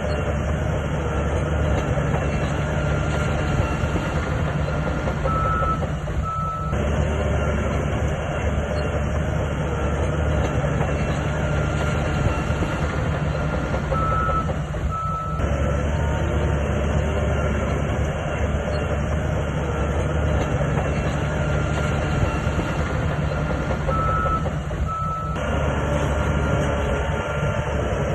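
Heavy diesel bulldozer engine running steadily under load, with pairs of short high beeps coming back about every nine seconds.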